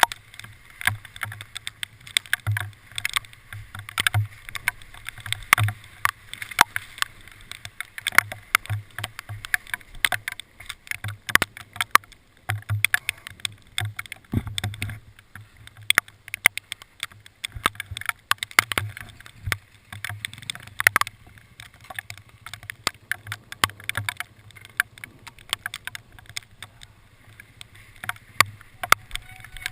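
Hailstones striking hard surfaces in rapid, irregular clicks and taps, over a steady low hum.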